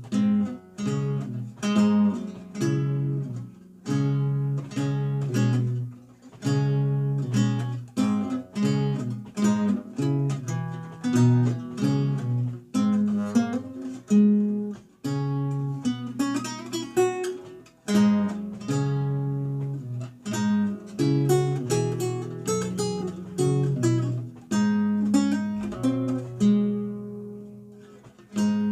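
Renaissance lute played solo: a run of plucked single notes and chords, each ringing and decaying. Near the end a chord is left to die away before the next note.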